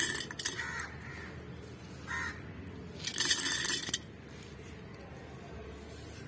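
Small stone chips rattling and clinking as they are poured into a flowerpot to make a drainage layer. Two short bursts, the first right at the start and the second about three seconds in, with a brief fainter rattle in between.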